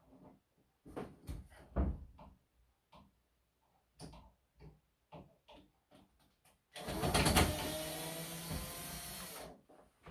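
Scattered knocks and clicks, like parts of an LG wall-mounted air conditioner being handled. About seven seconds in, a loud hiss with a low motor hum in it runs for about three seconds and then stops.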